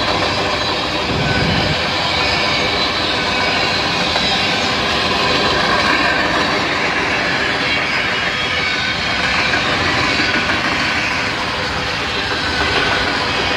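CN freight train's covered hopper cars rolling past close by: a steady, loud rumble and clatter of steel wheels on the rail, with thin steady tones running over it.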